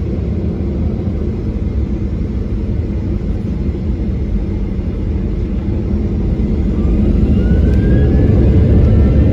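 Boeing 737-800's CFM56 jet engines heard from inside the cabin: a steady rumble, then from about two-thirds of the way through a rising whine and growing loudness as the engines spool up for the take-off roll.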